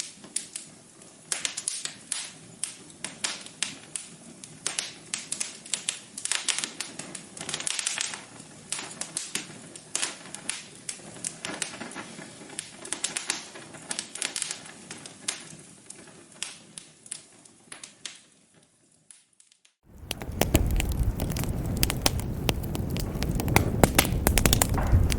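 Wood fire crackling in a fireplace, with irregular sharp pops. About 19 seconds in it fades out, and after a moment of near silence a louder, denser crackle sets in with a low rumble underneath.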